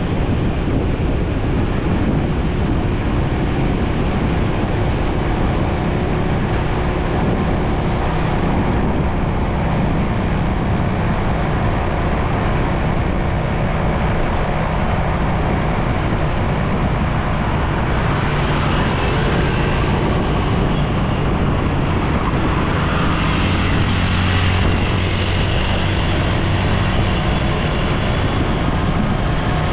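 Steady road noise heard from a moving motorcycle: the engine running and traffic around it. Past the middle a low engine drone and more hiss come in, as from a larger vehicle close by.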